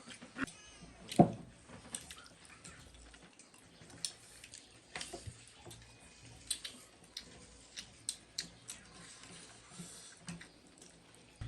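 Close-up eating sounds: chewing and wet mouth clicks and smacks, with scattered short sharp clicks; the loudest comes about a second in.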